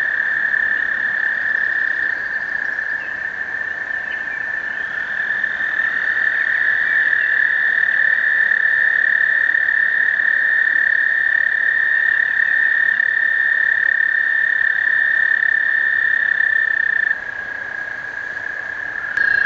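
Male American toad giving its breeding trill: one long, steady, high musical trill held for many seconds, the advertisement call that draws females to the breeding water. Near the end the trill falls quieter, and another trill begins as it fades.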